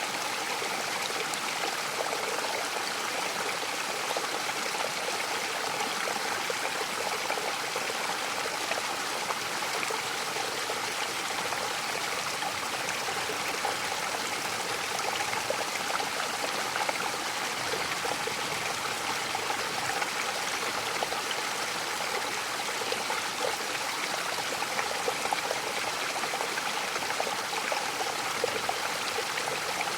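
Mountain waterfall: a steady, unbroken rush of falling and splashing water, mostly in the middle and upper range, with a faint trickling texture.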